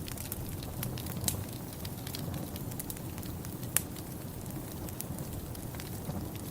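Wood fire crackling in a fireplace, with scattered sharp pops over a steady low rumble; the loudest pop comes almost four seconds in.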